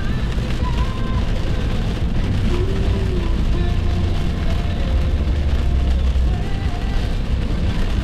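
Steady road noise inside a car moving on the highway: a constant low rumble of tyres and engine.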